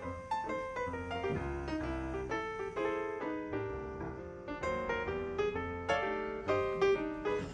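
Background piano music: a gentle melody of single struck notes over low bass notes.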